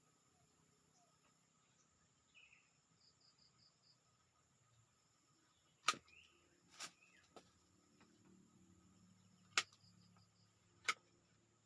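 Faint forest ambience: steady high insect trilling and a few faint bird chirps, broken by four sharp knocks, the loudest about six and nine and a half seconds in.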